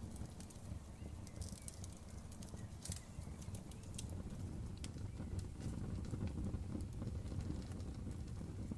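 Campfire crackling, with irregular sharp snaps and pops over a steady low rush of burning.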